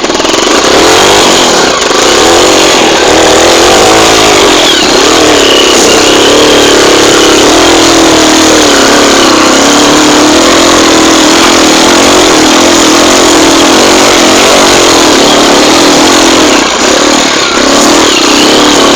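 Small single-cylinder trail motorcycle engine running loud under load, its pitch rising and falling as the rider revs through and eases off the throttle over rough ground.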